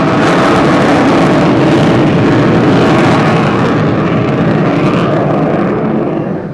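Avro Vulcan B2's four Rolls-Royce Olympus turbojets at high power in a display pass, a loud steady jet roar carrying the Vulcan howl. It falls away abruptly near the end.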